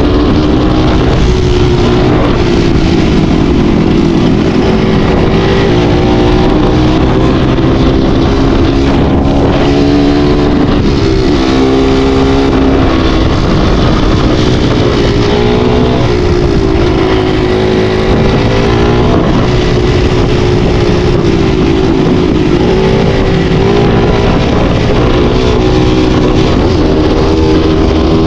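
Enduro dirt-bike engine running hard, its revs rising and falling again and again.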